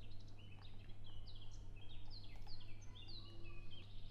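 Quiet birds chirping in the background: many short chirps, each falling in pitch, over a steady low hum.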